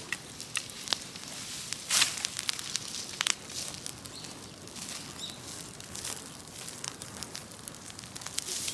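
Large open fire of brush and wood burning, crackling and popping irregularly over a steady hiss, with the loudest pops about two and three seconds in.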